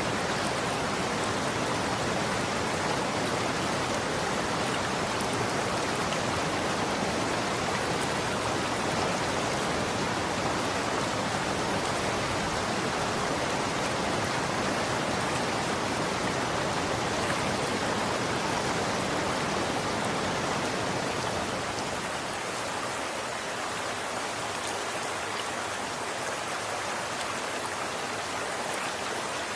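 Running water flowing in a steady, even rush. About twenty-two seconds in it turns slightly quieter and thinner in the low end.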